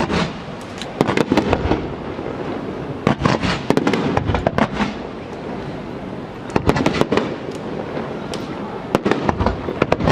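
Aerial fireworks display: firework shells bursting in quick clusters of sharp bangs every two to three seconds, with a steady noisy rumble between the clusters.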